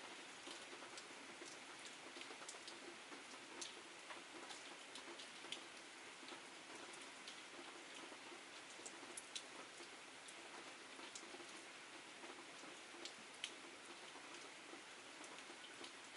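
Faint steady rain falling outside a window, with scattered sharp ticks throughout.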